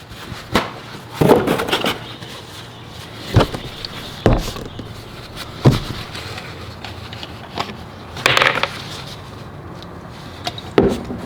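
Scattered knocks and clunks of objects being picked up and set down, about six separate hits with a short rattle about eight seconds in.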